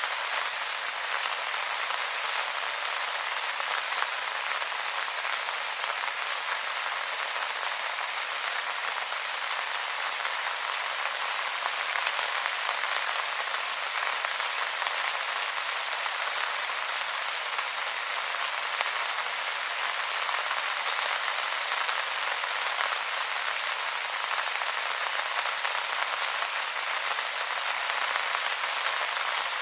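Steady rain falling on wet leaves: a dense, even hiss of many small drops striking, with no deep rumble.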